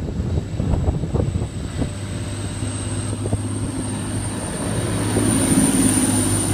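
A train in the station, its steady low hum building louder from about five seconds in, with a high whine above it. Wind buffets the microphone in the first two seconds.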